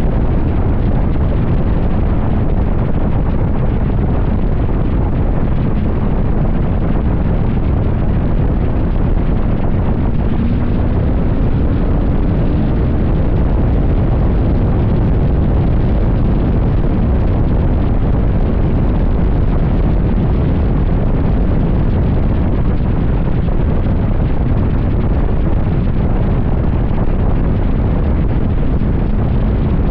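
Heavy wind noise buffeting the microphone on a motorcycle at highway speed, steady and loud. Under it a faint engine tone rises in pitch about a third of the way through.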